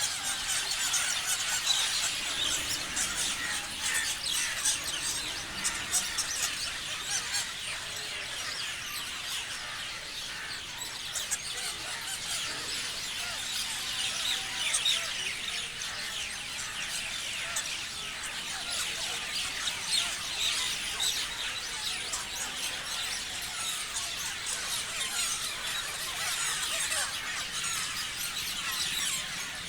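Many parrots chirping and squealing together, short high-pitched calls overlapping without a break.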